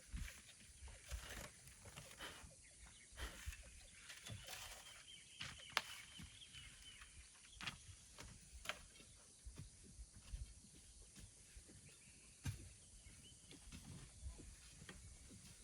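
Quiet outdoor ambience with scattered faint clicks and knocks, and a faint high steady tone for a couple of seconds near the middle.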